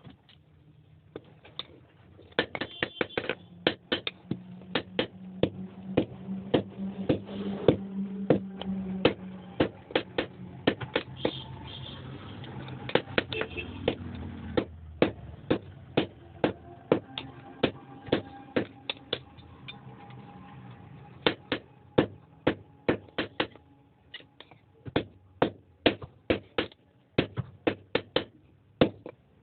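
Hammer blows on iron on an anvil while an axe is being forged, about two to three sharp strikes a second in runs with brief pauses. A steady low hum runs under the first half.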